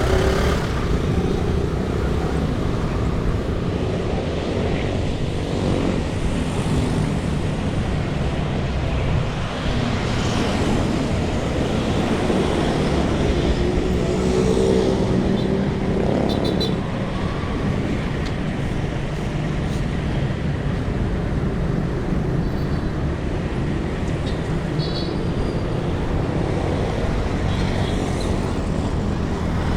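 Road traffic with a steady low rumble of wind and road noise while riding along a city street. Motor vehicles pass, one most clearly about halfway through, and a few short high chirps come near the middle and later on.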